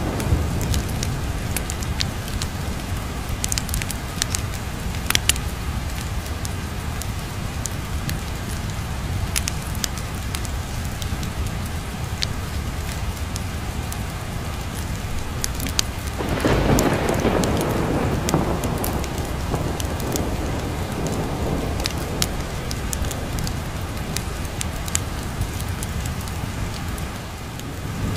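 Steady rain with scattered sharp crackles. A little past halfway a roll of thunder rumbles in and fades away over several seconds.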